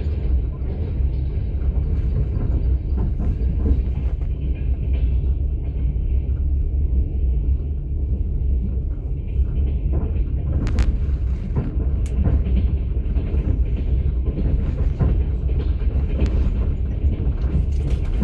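Russian long-distance passenger train running, heard from inside an open-plan platskart sleeper carriage: a steady low rumble of the wheels and carriage on the rails. A couple of sharp knocks come a little past halfway.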